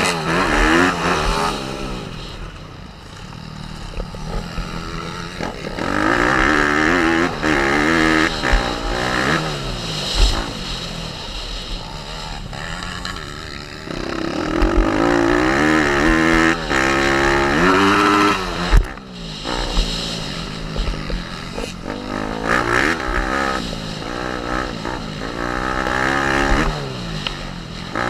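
Small single-cylinder four-stroke pit bike engine revving hard and falling off again, over and over, as the rider accelerates, changes gear and backs off. There are a couple of sharp thumps along the way.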